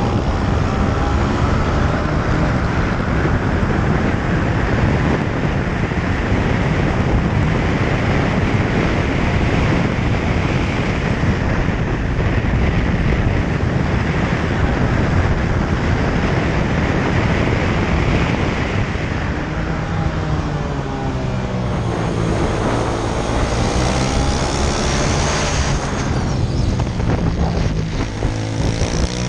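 Honda Grom's 125 cc single-cylinder four-stroke engine at racing pace, heard onboard under heavy wind rush. Twice near the end the revs drop and climb again as the throttle is closed and reopened through corners.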